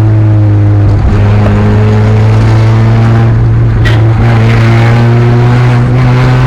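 Maruti Suzuki Ertiga's aftermarket valvetronic exhaust, loud, with the engine held at steady revs and a deep, even drone throughout.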